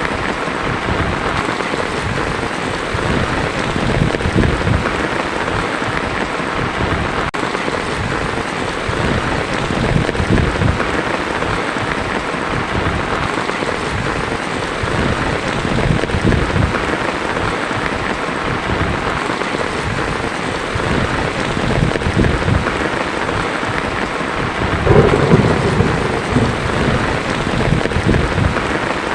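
Heavy rain falling on a tin roof, with thunder rumbling low underneath; one louder roll of thunder comes near the end.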